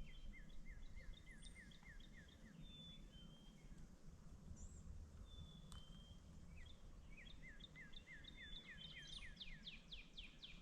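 Faint songbird singing: a quick run of about eight repeated slurred whistled notes, then after a pause a longer run that ends in faster, higher notes, with a few scattered chirps between.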